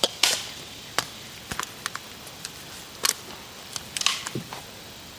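Irregular sharp clicks and knocks, about a dozen. The loudest come at the start, about three seconds in and about four seconds in, a few with a brief hissing tail.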